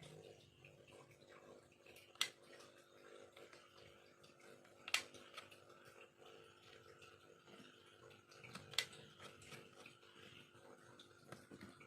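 Quiet hand work on bamboo: faint scraping with three sharp clicks, about two, five and nine seconds in, over a steady low hum.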